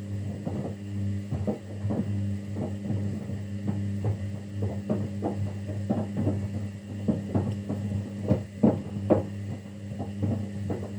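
Kunft washing machine on a quick 15-minute 40° wash: a steady motor hum while the drum turns, with repeated soft knocks of the tumbling wet load, two or three a second.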